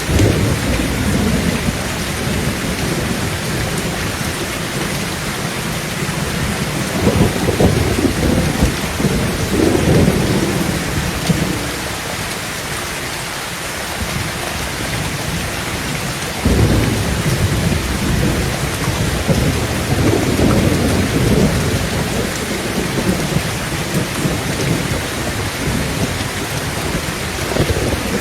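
Heavy rain falling steadily on a tin tent roof, with thunder rumbling several times over it. A rumble breaks in suddenly right at the start, more roll in about a quarter and a third of the way through, another starts abruptly a little past halfway, and a last one comes near the end.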